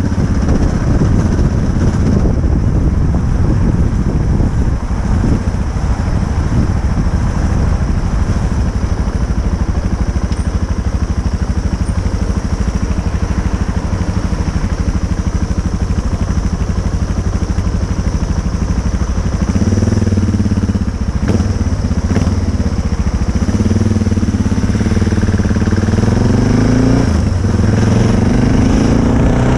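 Motorcycle being ridden, with heavy wind and road rumble over the microphone. From about twenty seconds in, the engine note comes through, rising and falling several times as it revs through the gears.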